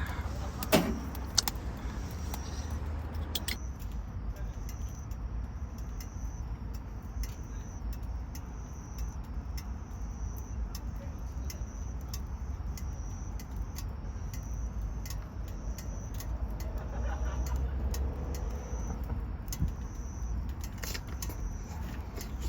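Wood campfire crackling with scattered sharp pops over a steady low rumble. A short high chirp repeats about once a second.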